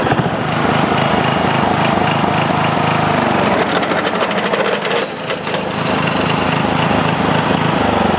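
Sears Companion riding mower's engine running with the mower deck turning, the deck adding a rapid clatter from about three and a half seconds in for over a second. It is the sound of a bad mandrel, the deck's damaged blade spindle housing.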